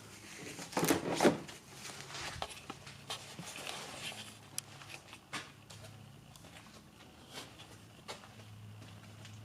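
A clatter of knocks about a second in, then scattered sharp clicks and taps over a faint steady low hum.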